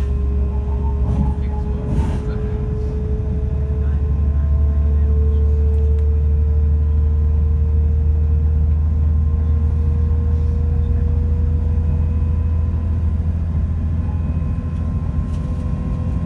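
Cabin sound of a Class 172 diesel multiple unit running along the line: a heavy, steady low rumble with a faint whine that rises slowly in pitch, and a few light clicks near the start.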